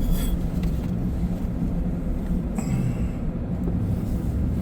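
Steady low road and engine rumble heard inside a car being driven on snow-covered roads, with a brief high squeak a little over halfway through.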